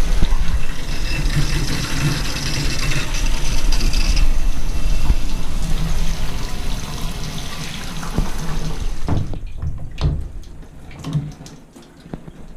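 Water spraying from a newly installed shower head, a steady rush run as a leak test, then shut off about nine seconds in, followed by a few small knocks.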